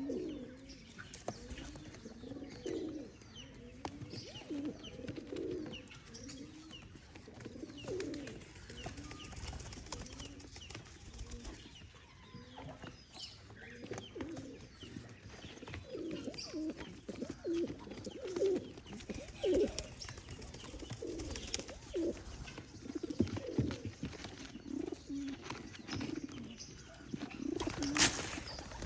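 Pigeons cooing over and over, low rolling calls that overlap throughout. A single sharp knock shortly before the end.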